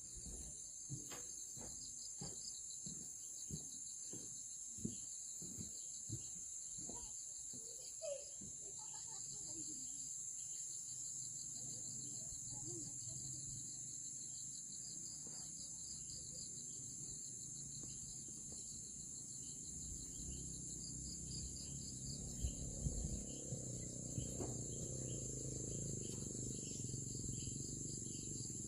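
Insects, mainly crickets, chirping steadily in a fast pulsing rhythm over a continuous high-pitched drone. Regular soft taps come about twice a second for the first several seconds, and a low background rumble rises over the last third.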